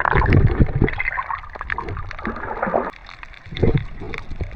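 Sea water sloshing and gurgling in irregular surges.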